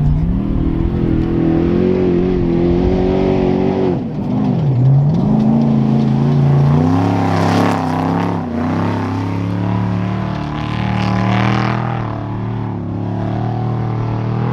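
Trophy truck's engine running hard. Its pitch drops and climbs back twice, at the start and again about four to five seconds in, then it holds a steadier, lower drone.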